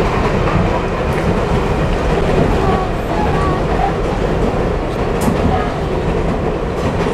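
New York City subway train running, heard from inside the car: a steady, loud rumble of wheels on the rails.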